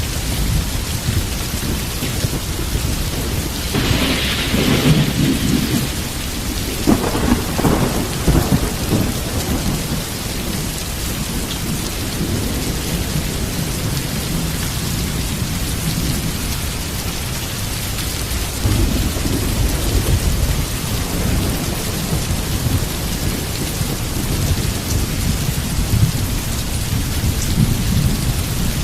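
Heavy rain falling steadily under a rolling thunderstorm, with a constant deep rumble of thunder. Thunder swells and crackles about four seconds in and again at seven to nine seconds, with another rumble near nineteen seconds.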